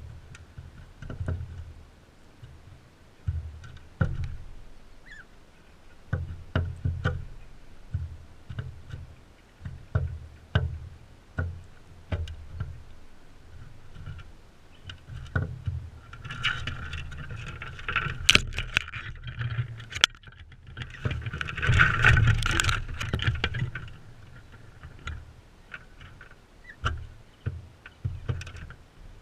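Crimson rosellas feeding right at a GoPro: many sharp taps and knocks of beaks and feet on the feeder, with low thumps close to the microphone. A busier, noisier stretch of scratching and rustling comes a little past halfway.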